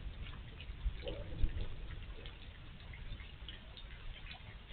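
Rain dripping during a thunderstorm: scattered, irregular ticks and drips over a steady low background noise.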